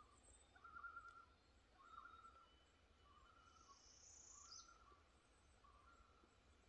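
Faint outdoor quiet with a bird calling over and over, a short phrase about once a second, and one brief higher buzzy call near the middle.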